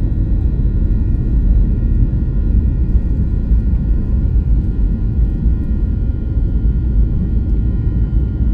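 Airliner jet engines running at a steady loud low rumble, with several steady whining tones above it.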